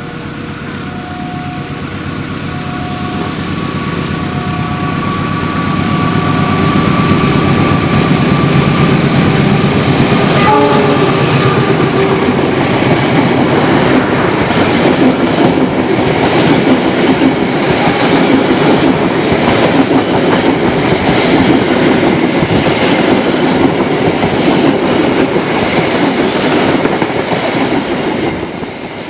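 Passenger train hauled by a GE diesel-electric locomotive coming up and passing close by, growing louder over the first several seconds. It then holds as a loud, dense rumble and clatter of wheels over rail joints. A repeating two-note warning tone sounds during the first few seconds.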